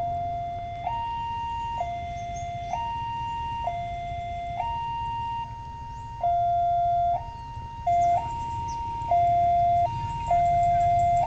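Railway level crossing warning alarm sounding, an electronic two-tone signal alternating between a lower and a higher tone about once a second, which signals that a train is approaching and the barriers are closing. A steady low rumble runs underneath.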